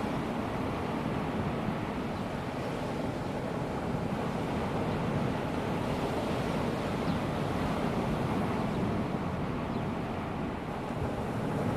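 Calm sea washing gently onto a sandy beach: a steady, even wash of small waves with no single breaker standing out.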